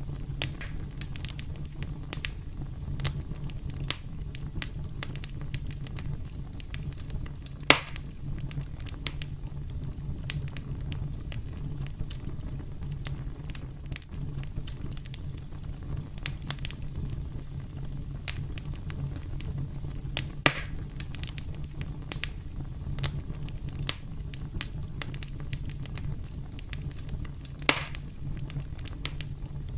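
Campfire crackling: a steady low rumble of burning wood under frequent sharp crackles, with three louder pops about 8 seconds in, about 20 seconds in and near the end.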